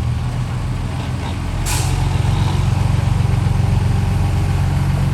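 Dump truck's diesel engine running steadily, with a short hiss of released air about a second and a half in, after which the engine runs louder.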